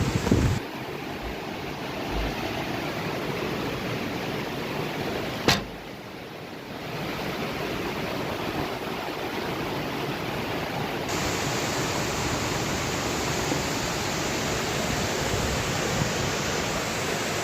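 Heavy rain falling in a steady hiss, with a single sharp click about five seconds in.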